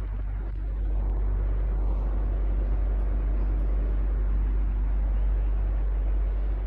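Electric fan running steadily: an even rush of moving air over a constant low hum.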